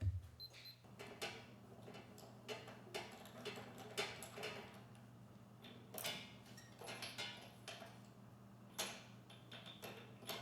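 Scattered light clicks and knocks of small parts and hand tools being handled on a workbench, a few louder taps among them, over a steady low hum.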